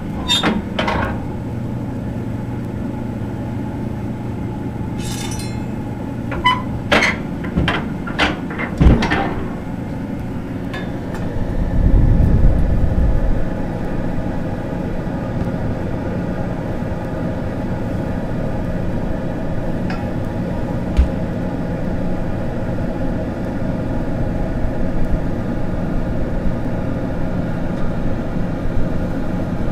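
A wood stove's blower fan running with a steady hum, while a metal shovel clanks and clinks against the stove several times in the first ten seconds as capacitors are tipped into the fire. A heavier low rumble comes about twelve seconds in.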